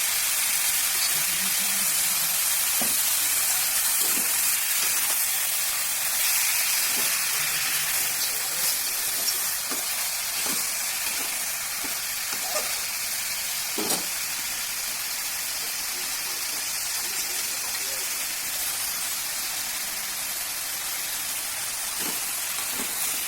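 Food frying in hot oil in a pan: a steady sizzling hiss, slightly quieter in the second half.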